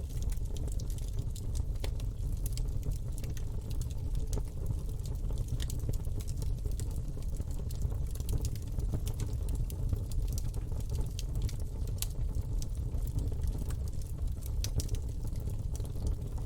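Campfire burning: irregular sharp crackles and pops from the burning wood over a steady low rumble of flame.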